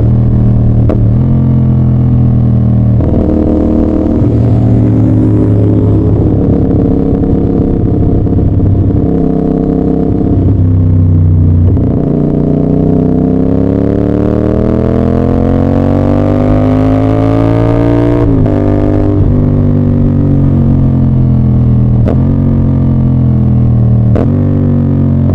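CF Moto 450SR-S parallel-twin engine and exhaust under way. The pitch steps up and down through several gear changes, then climbs in one long pull for about six seconds before dropping sharply at a shift about eighteen seconds in, and then runs more steadily.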